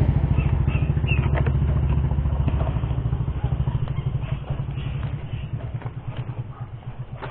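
Small motorcycle engine idling with an even low beat, growing steadily fainter.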